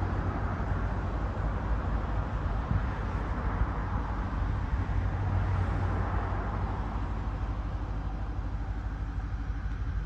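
Steady rumble and hum of a moving vehicle, with road and engine noise.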